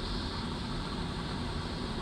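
Automatic car wash running, heard from inside the car's cabin: a steady rushing hiss over a deep rumble.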